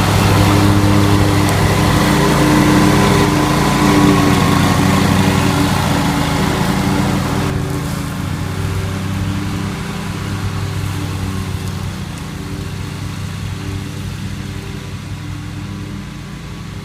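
Lawn mower engine running steadily. About halfway through it turns quieter and duller, and runs on at that lower level.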